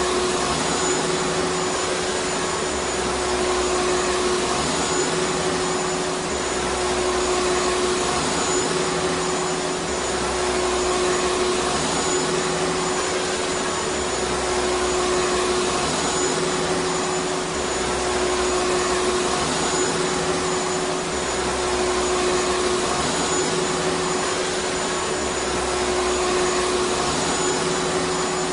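Vacuum cleaner running steadily: a constant rush of air with a steady motor whine, and a faint low pulse repeating about every two and a half seconds.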